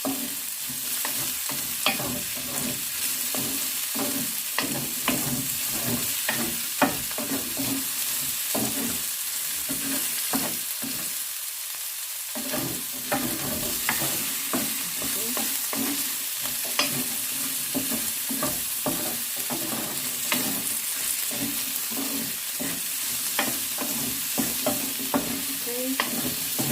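Onions and red and green bell peppers sizzling in hot oil on high heat while a spatula stirs them, with frequent clicks and scrapes of the spatula against the pan. The stirring stops briefly about halfway through while the sizzling continues.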